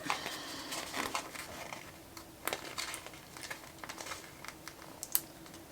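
Sticker sheets and planner paper being handled: soft crinkling with scattered small taps and ticks, over a faint steady hum.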